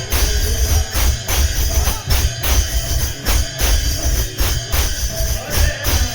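Kirtan devotional music: a drum and jingling metal hand cymbals keeping a steady beat, with melodic instruments holding notes underneath.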